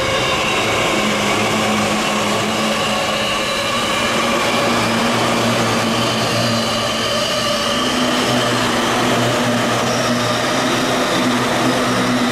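Electric commuter train running along the platform, a steady, loud rumble of wheels with a low motor hum and faint higher drifting tones.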